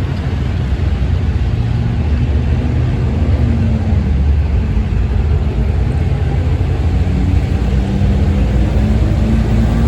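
V10 gas Dodge dually pickup engine running hard under load, pulling a weight sled: a loud, steady rumble with its pitch rising and falling slightly.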